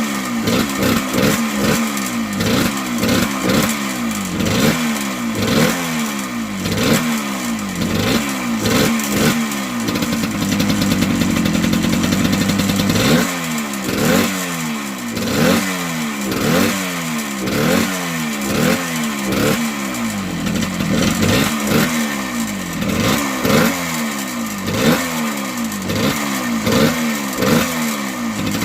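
1978 Yamaha DT100's small single-cylinder two-stroke engine running, revving up and dropping back again and again about once a second, with a steadier stretch near the middle.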